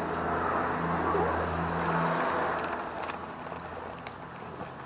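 A vehicle engine running with a steady low hum that fades away about two and a half seconds in.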